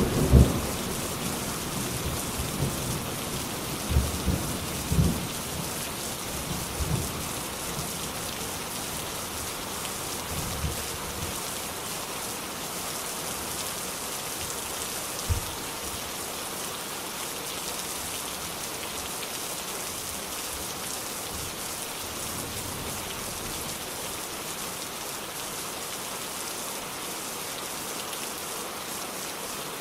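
Steady heavy rain falling, with the tail of a thunder rumble over the first few seconds and a few low thuds of thunder, the last one about halfway through.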